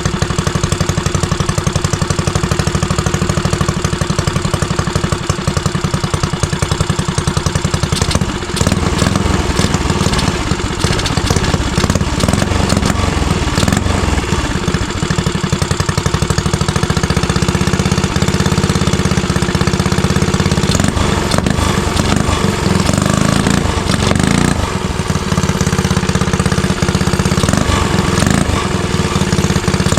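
Small single-cylinder mini bike engine running. It idles with even firing pulses, then from about eight seconds in runs faster and less evenly.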